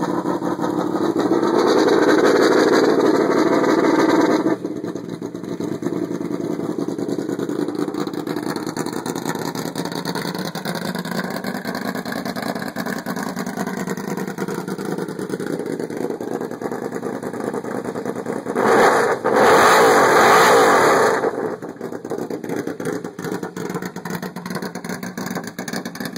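2000 Yamaha VMAX's V4 engine through a UFO Drag Star aftermarket exhaust and headers, with a deep, V8-like note. It idles and is twice revved up and held for a few seconds, near the start and again about nineteen seconds in.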